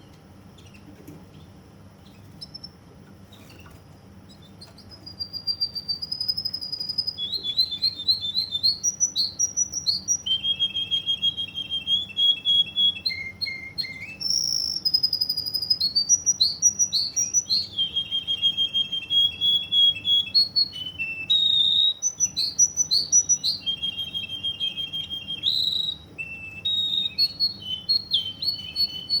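Russian canary singing, starting about five seconds in: a long run of fast trills and rolls, each phrase held on one pitch before switching to the next.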